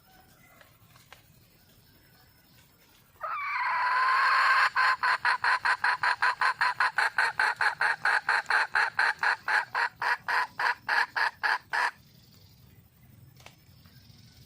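Red junglefowl hen calling. About three seconds in she gives a rising note, held briefly, then breaks into a fast, even run of repeated clucks, about five a second, that stops abruptly some seven seconds later. It is a hen's call for a mate.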